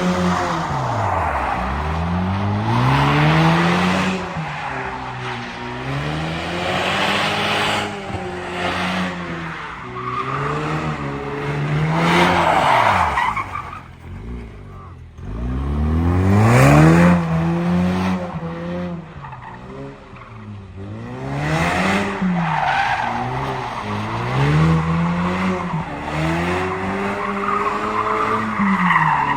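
A car engine revving hard, its pitch rising and falling every couple of seconds, with tyres squealing on the pavement as the car spins its wheels in a slide. It eases off briefly about halfway through, then starts again.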